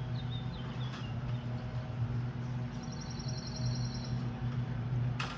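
Outdoor ambience: a steady low hum with a few high bird chirps in the first second, a short rapid high-pitched trill in the middle, and a sharp click near the end.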